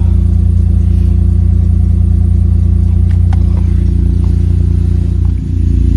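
Car engine idling while parked, heard from inside the cabin as a steady low hum, with a brief dip in level near the end.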